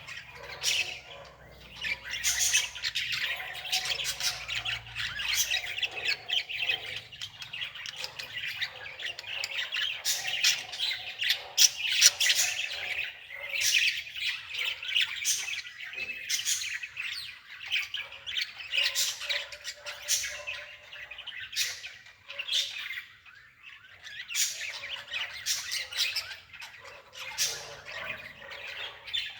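Many small birds chirping and squawking continuously, calls overlapping throughout.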